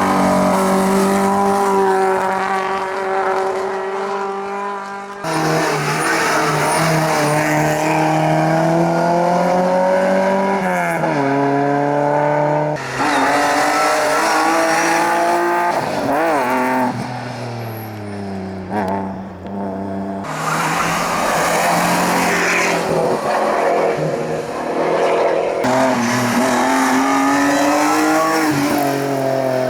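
Competition car engines at high revs in several short clips cut one after another. The engine note climbs and then drops at each gear change, with quick rising-and-falling throttle blips near the middle.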